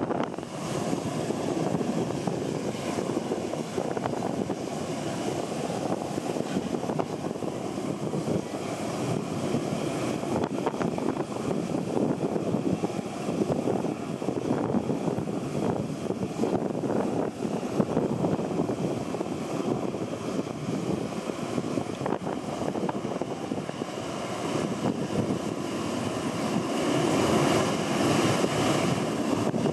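Jet airliner engines running on the airfield, heard under heavy wind buffeting on the microphone; the engine sound swells near the end.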